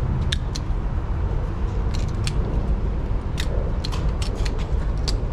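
Gas pump nozzle clicking several times at irregular intervals, its automatic shut-off tripping again and again while fuel goes in slowly, over a steady low rumble.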